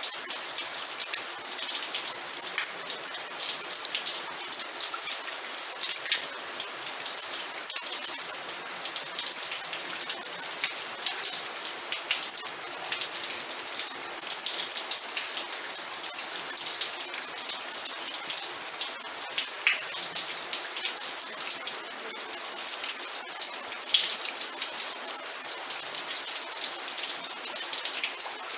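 Steady rain, with many individual drop hits heard as small clicks over an even hiss.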